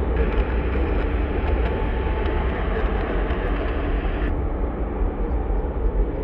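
Airbus A380's four jet engines at takeoff power: a loud, steady rumble with a heavy deep low end.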